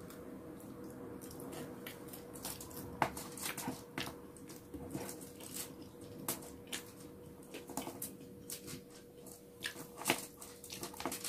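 A person eating bacon close to the microphone: scattered soft clicks and wet mouth smacks of chewing, over a faint steady hum.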